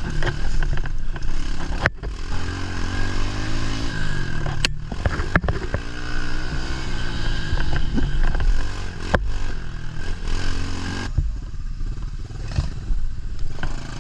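110cc pit bike engine revving up and falling back repeatedly as the bike is ridden hard through a woods course. Sharp clatters and knocks, about four of them, cut through the engine noise.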